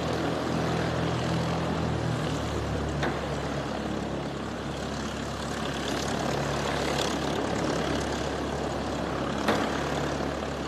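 Cessna 172's piston engine and propeller running steadily, its pitch shifting slightly about two seconds in. Two brief clicks, about three seconds in and near the end.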